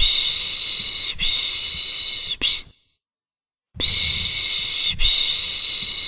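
A person's soothing 'shh' shushing for a baby: long hushes of about a second each run back to back and end in a short one, then after a pause of about a second the series starts again.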